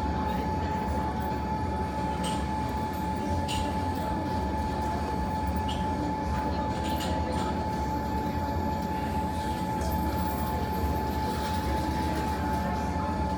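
A steady low rumble with a constant thin whine running under it, and a few faint crackles of the fireplace fire scattered through.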